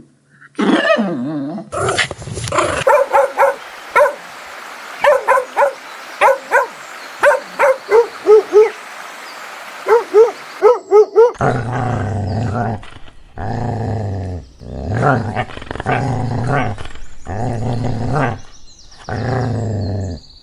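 Puppies barking and yipping, a quick run of short high calls, then from about halfway longer, deeper growling calls about a second each with short gaps between.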